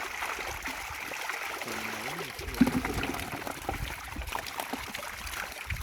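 Water trickling and running steadily, with a faint voice in the background and one sharp knock about two and a half seconds in.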